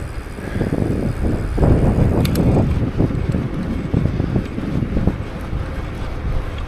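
Wind buffeting the microphone of a camera carried on a moving bicycle: a loud, uneven low rumble that swells and dips, with a brief click about two seconds in.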